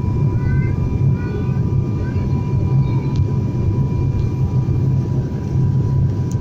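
Steady low drone of a turboprop airliner's engines and propellers heard inside the cabin on the approach to landing.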